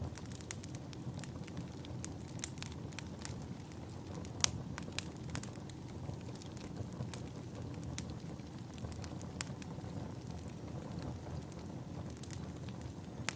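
Log fire crackling in a fireplace: a steady low rush of flames with frequent sharp, irregular pops, one louder pop about four and a half seconds in.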